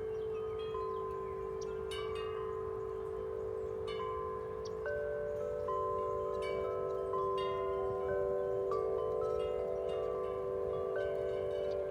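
A set of large tuned metal-tube wind chimes swinging in strong wind, struck over and over: deep tones hold and overlap for seconds beneath frequent higher, shorter strikes, over a low rumble of wind.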